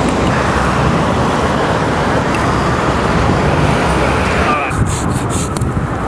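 Road traffic noise: a steady rush of vehicles passing on a busy road.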